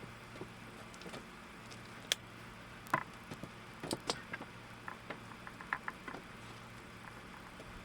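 Scattered light clicks and taps of wooden boards being handled while boiled linseed oil is rubbed in with a rag, over a steady low hum.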